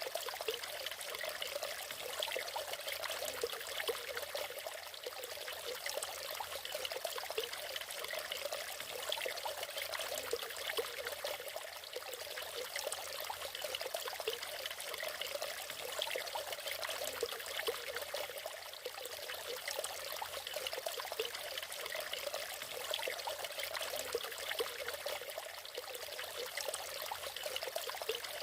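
Natural waterfall: water falling and splashing steadily over rocks, an even trickling and rushing with little low rumble.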